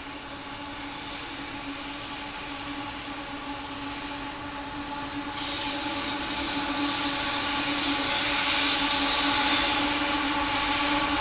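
Diesel locomotives of an approaching freight train, their steady engine drone growing gradually louder, with a high hiss of wheels on rail joining about halfway through.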